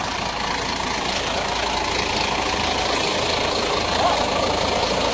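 Diesel engine of a Scania bus running steadily, growing slightly louder over the first couple of seconds.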